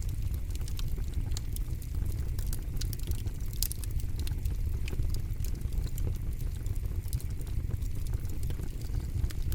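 Campfire burning, with a steady low rumble under frequent, irregular sharp crackles and pops from the burning wood.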